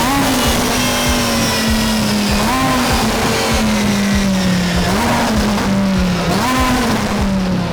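Twin-turbocharged Lamborghini Huracán V10 running at speed. Its note sags slowly and jumps back up in short rises several times.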